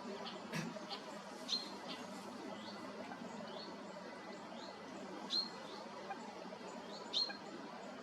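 Bird calls: a series of short, high, upward-flicking piping notes repeated about every half second, three of them louder than the rest, over faint outdoor background hiss.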